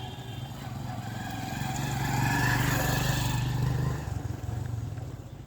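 A motor vehicle's engine passing close by, growing louder to a peak between about two and four seconds in, then dropping away.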